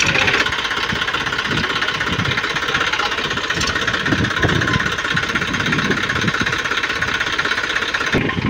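Diesel tractor engine running steadily with a rapid, even knocking beat.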